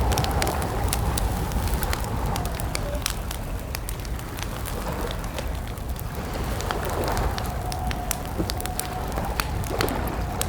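Campfire crackling with frequent sharp pops over a steady low rumble, with a faint wavering whistle-like tone running through it.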